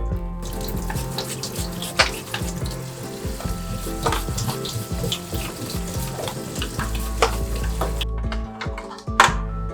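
Food sizzling in a hot frying pan, with a few sharp clicks of a utensil against the pan. The sizzle stops about eight seconds in.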